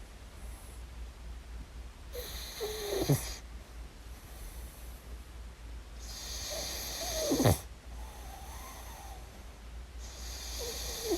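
A sleeping puppy snoring: three long snores about four seconds apart, each swelling and ending in a short, sharp snort.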